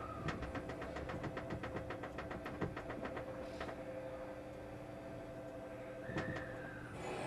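Steady hum inside a stationary electric express train car. A rapid run of sharp clicks, about eight a second, lasts about three seconds near the start, and a single knock comes about six seconds in.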